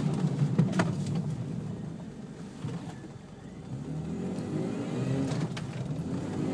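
Supercharged first-generation Toyota Tacoma under hard braking: engine and road noise die down as the truck slows, then the engine picks up again about four seconds in, rising in pitch as it accelerates, with a few light clicks.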